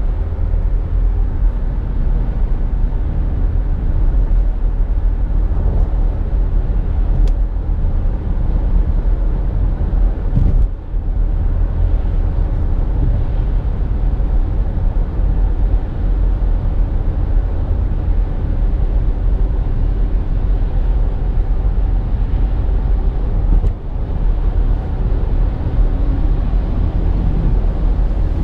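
Nissan Rogue on the move: a steady low rumble of engine and road noise that dips briefly twice, about 11 and 24 seconds in.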